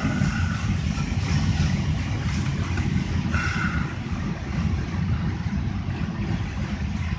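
Freight train cars rolling past on the track: a steady low rumble, heard from inside a car.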